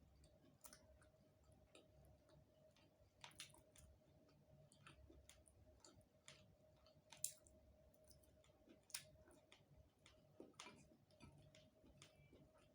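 Faint eating sounds: soft chewing and scattered mouth clicks, with one sharper click about seven seconds in, over a faint steady hum.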